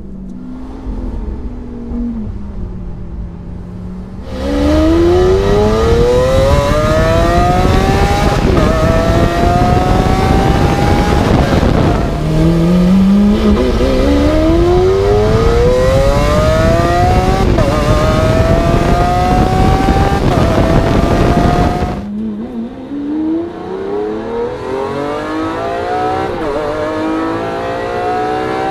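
Lamborghini Aventador V12 with a Capristo cat-less straight-pipe exhaust, cruising at first, then suddenly much louder under hard acceleration, rising in pitch through several upshifts with a brief ease-off and a second hard pull. In the last quarter it drops back to a quieter, cabin-heard sound that again climbs through the revs.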